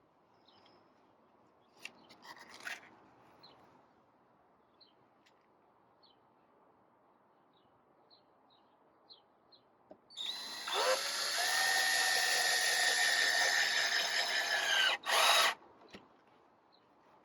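Power drill spinning up about ten seconds in and running steadily for about five seconds, with a brief stop just before it ends, as when driving a screw into the wooden gate.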